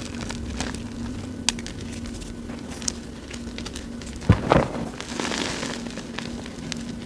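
Reformed gym chalk crushed by hand: scattered small crackles and soft crunches as fingers work through the powder and small chunks, with a louder crunch about four seconds in.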